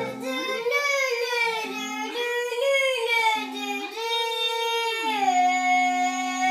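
A child's voice singing alone with no backing, several long held notes joined by slides up and down.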